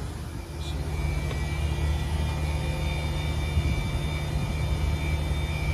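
Outdoor air-conditioning condensing units running: a steady low hum with a thin high whine, growing louder about half a second in.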